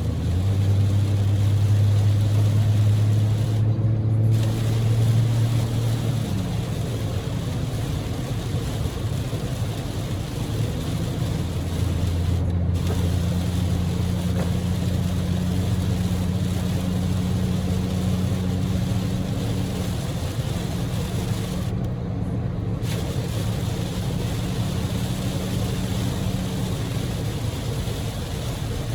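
Heavy typhoon rain and tyre spray, heard from inside the cabin of a Daihatsu Move L150S at expressway speed, over the steady hum of its 660 cc three-cylinder EF-VE engine. The hum steps in pitch a couple of times. The hiss of the rain briefly dulls three times.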